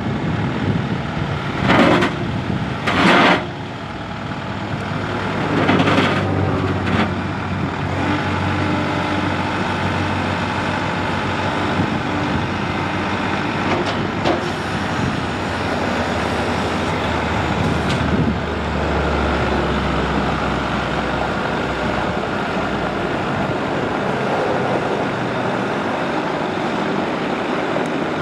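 Kubota MX5200's four-cylinder turbo diesel engine running steadily after two short loud noises early on, with its note swelling lower for a couple of seconds around the middle.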